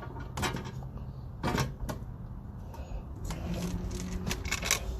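Scattered clicks and knocks of hand tools and parts being handled during wheel hub and brake work, about half a dozen over a few seconds, with a low hum underneath.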